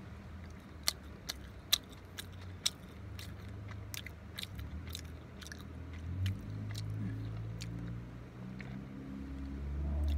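A person chewing a mouthful of burger close to the microphone, a run of sharp mouth clicks and smacks, over a steady low hum.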